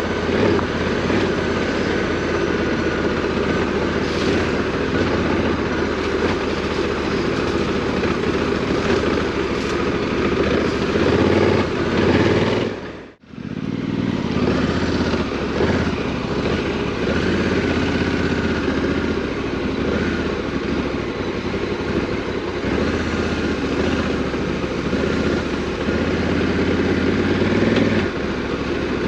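Parallel-twin adventure motorcycle engine running while riding off-road, its note rising and falling with the throttle. About 13 seconds in the sound drops out briefly and picks up again.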